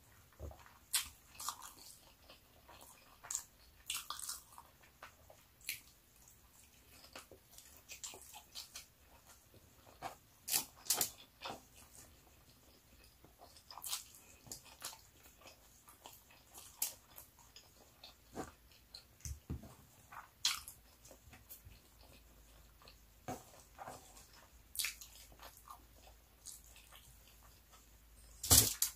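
Close-miked eating sounds of a person chewing rice and pork adobo taken by hand: chewing with mouth clicks and smacks at irregular intervals, and a sharp knock just before the end.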